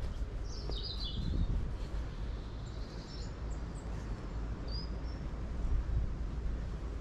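Woodland birdsong: a few short chirping phrases, the loudest about a second in, with more near the middle, over a steady low rumble.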